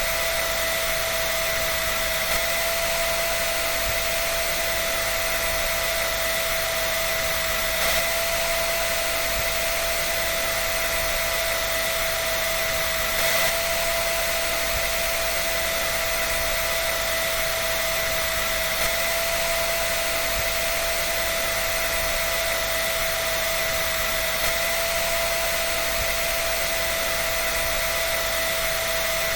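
Electric dryer running continuously: a steady airy rush with a constant high whine over it.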